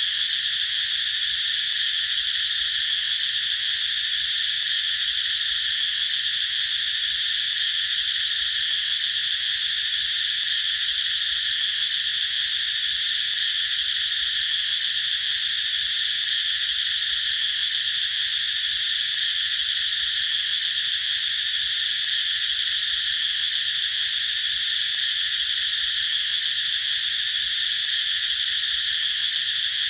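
Cicadas calling in a continuous, steady high-pitched drone under trees.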